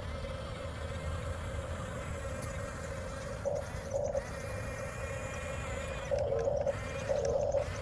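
Electric motors and gearboxes of a 1/14-scale Huina RC bulldozer whining steadily, swelling louder in several short bursts as the machine is driven.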